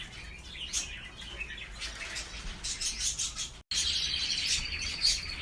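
Caged canaries chirping in scattered short calls. After a brief dropout about two-thirds in, a canary sings a fast rolling trill of rapidly repeated high notes.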